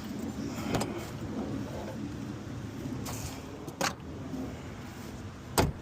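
Several sharp clicks and knocks, the loudest near the end, with a short hiss about three seconds in, over a steady low rumble.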